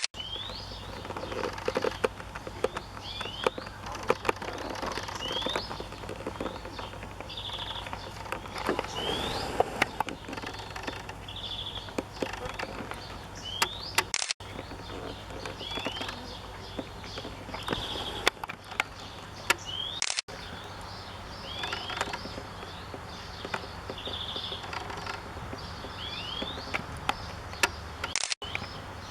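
Songbirds singing in a garden: repeated short rising whistles and brief buzzy notes, over a steady low hum and a few sharp clicks. The sound cuts out briefly three times.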